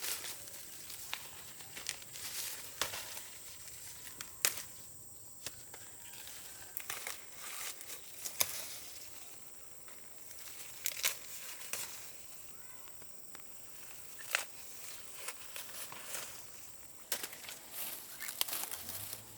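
Dry corn leaves and husks rustling and crinkling, broken by irregular sharp snaps and cracks.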